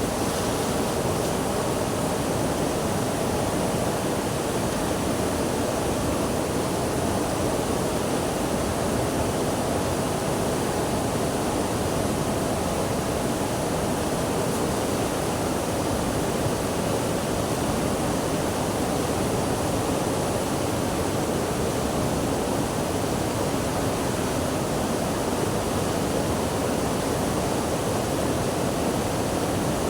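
Steady rushing water, an even, unbroken wash of sound with no separate splashes or changes.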